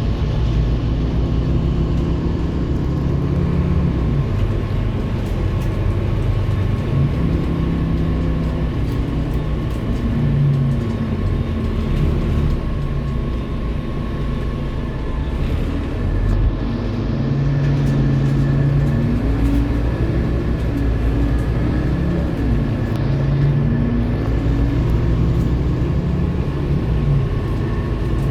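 Scania K230UB city bus with its diesel engine running as the bus drives. The engine note climbs and drops several times as it accelerates and changes gear, over a steady thin whine.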